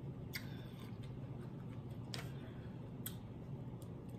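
A person chewing a mouthful of food close to the microphone: a few faint, scattered wet clicks and smacks of the mouth.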